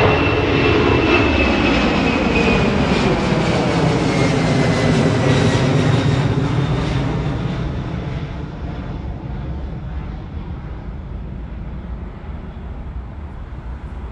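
Jet airliner's engines at takeoff power going past, a loud rush with a high whine that slides down in pitch. The sound fades away through the second half as the jet climbs out.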